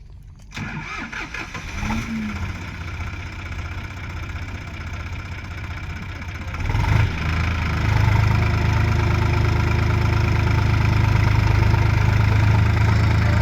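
Heavy diesel engine running, rising sharply about half a second in, then revved up about seven seconds in and held at a steady, louder pitch.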